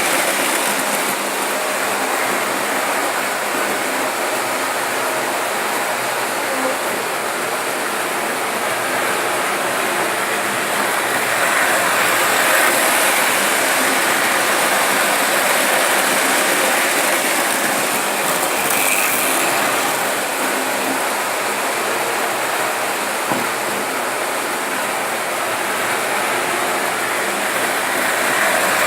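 Märklin model trains running on the track: a steady whirring rattle of wheels and motors that swells and eases gently, with a single click about 23 seconds in.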